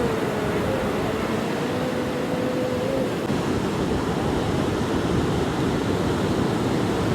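Ocean surf breaking and washing up the beach, a steady rush of water noise. A faint held tone sits under it for the first three seconds or so.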